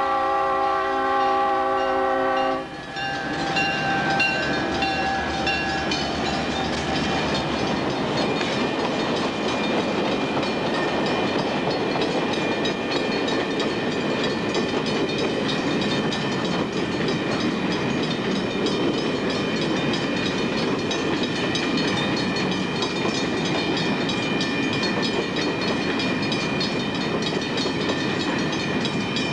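Diesel locomotive air horn sounding a held multi-note chord that cuts off about two and a half seconds in. Then a freight train's cars roll past over the rails, a steady rumble and clatter of wheels with thin high tones above it.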